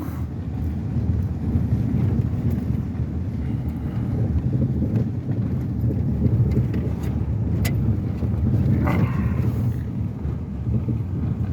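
Pickup truck heard from inside the cab: engine and tyres rumbling steadily as the truck drives along, with a single sharp click about two-thirds of the way through.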